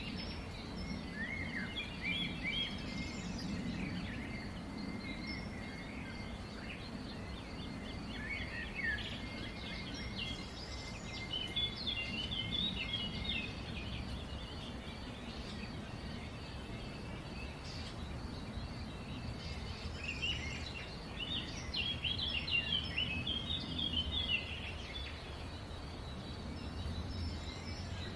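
Several small birds chirping and twittering in quick high bursts that come in three spells, over a steady low background rumble.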